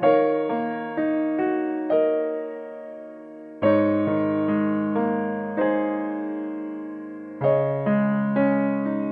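Background piano music: gentle notes and chords struck in phrases, each note ringing and fading, with fresh chords about three and a half and seven and a half seconds in.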